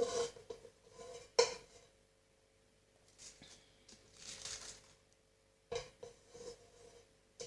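A utensil clinking and scraping against a pan while melted cocoa butter is worked over cannelloni. There are two sharp clinks near the start, a scraping sound from about three to five seconds in, and another knock near the end.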